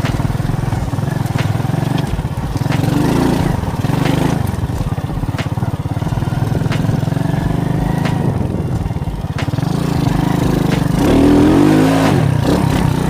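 Alpha moped's small engine running under way, its revs rising and falling a couple of times, with scattered knocks and rattles as it rides over stony, bumpy ground.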